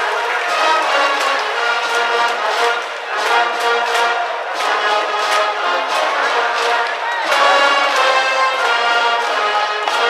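High school brass band playing a baseball cheering tune from the stands, trumpets and trombones holding the melody over a steady drumbeat of about two beats a second.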